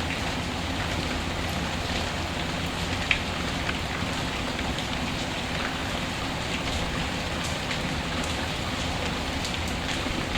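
Steady rain falling, with scattered small crackles and one sharp pop about three seconds in, as from a wood fire burning.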